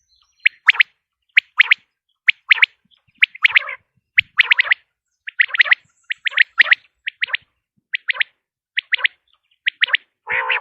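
Common quail calling: short clusters of two to four quick, high notes repeated about once a second, about a dozen times. A harsher, lower call comes right at the end.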